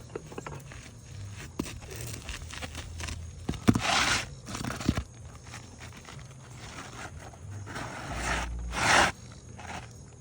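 Asphalt roof shingle being slid back into place under the lifted course above, scraping and crunching against the neighbouring shingles in a few rough strokes, the loudest about four seconds in and around nine seconds, with a couple of sharp knocks.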